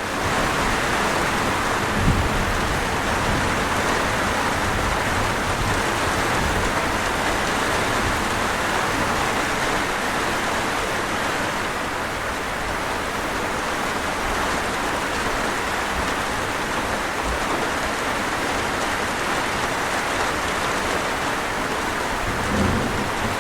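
Steady rain falling, a dense even hiss, with two brief soft low thumps, one about two seconds in and one near the end.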